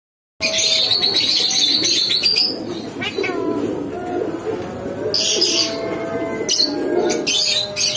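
Pet parrot calling with harsh, shrill screeches: one long call of about two seconds at the start, then shorter ones about five and seven seconds in, over a lower murmuring sound.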